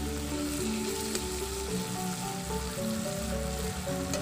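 Greens and fried fish sizzling in an aluminium wok as a metal spatula stirs them, with a couple of faint clicks of the spatula. Background music with slow, held notes plays over it.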